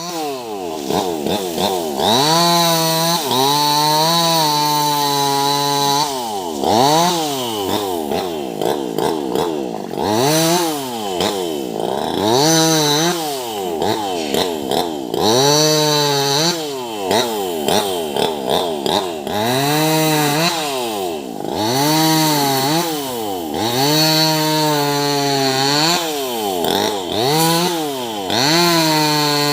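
Small two-stroke top-handle chainsaw cutting tree branches. Again and again its engine revs up to full throttle, holds there through a cut and drops back toward idle, about every two to three seconds.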